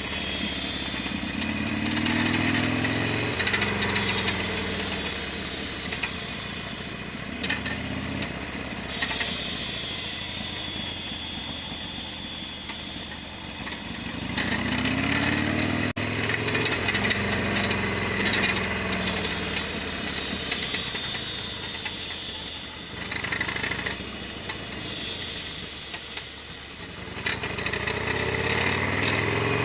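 Harley-Davidson Sportster XL1200R's air-cooled V-twin engine running under way. Its pitch climbs three times as the bike accelerates, and it settles lower in between.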